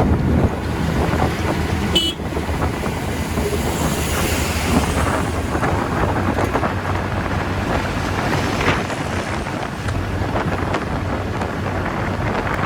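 Wind rushing over the microphone and road noise while riding a TVS Ntorq 125 scooter at speed, with the engine's low drone underneath. A short high beep about two seconds in.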